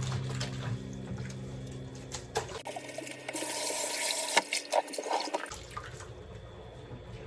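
Water running briefly and dripping, with a few small clicks and knocks.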